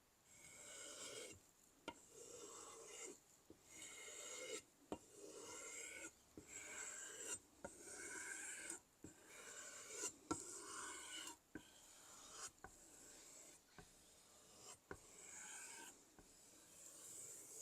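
Knife blade scraping across a sharpening stone in repeated strokes, about one every second or two, with short pauses and light clicks between strokes.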